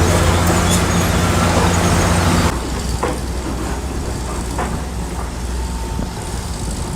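Heavy diesel earthmoving machine engine running loudly with a deep drone, then dropping abruptly about two and a half seconds in to a quieter, lower drone, with a few metallic clanks after.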